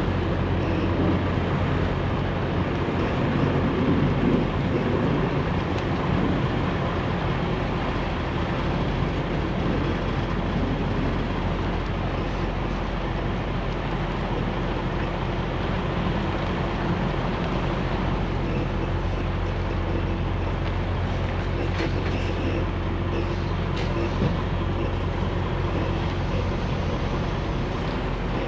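Semi-truck engine and road noise: a steady low drone while driving.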